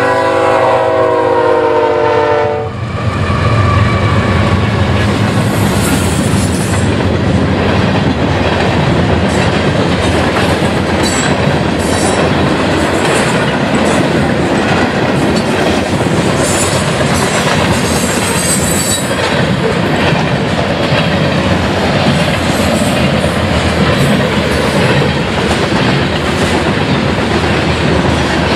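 A GE ES44AC diesel locomotive's five-chime air horn sounds a chord that cuts off about two and a half seconds in, as the locomotives pass close by with their diesel engines running. After that comes the steady rolling noise and clickety-clack of loaded covered hopper cars going by over the rail joints.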